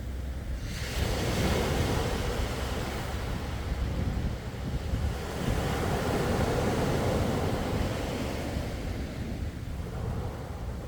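Sea waves washing in: one wave swells and breaks about a second in, a second rolls in around the middle, and the wash fades near the end, over a steady low rumble.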